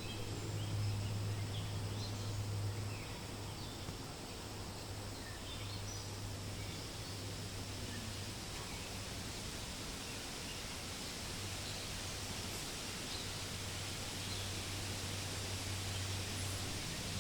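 Wind rustling through forest leaves as a steady hiss, with scattered short bird chirps, more of them in the first few seconds. A low steady hum runs beneath, dropping out for several seconds in the middle.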